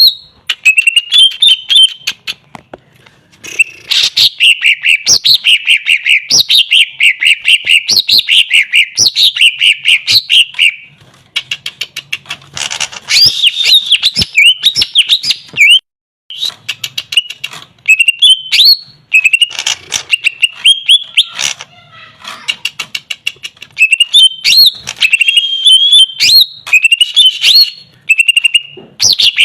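Green leafbird (cucak ijo) singing loudly in rapid, repeated phrases of sweeping whistles and chirps, with short pauses and a brief dropout about sixteen seconds in.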